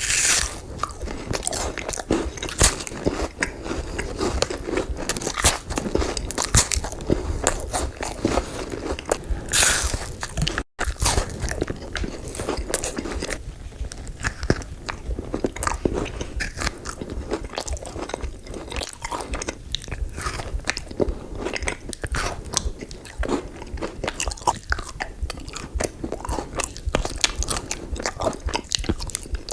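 Close-miked eating of sugary desserts: repeated crunchy bites and chewing. It cuts out for an instant about ten seconds in, then the crunching goes on.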